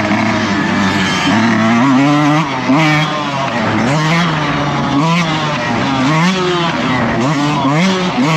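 Dirt bike engine under hard throttle, revving up and dropping back over and over, its pitch rising and falling about once a second as the rider opens and closes the throttle around the track.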